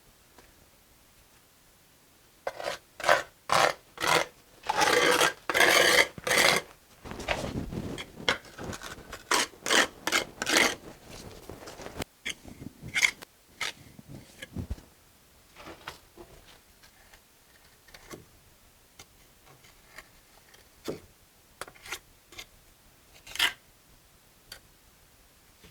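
A mason's trowel scraping mortar against brick in a run of quick rasping strokes, then scattered light taps and clicks.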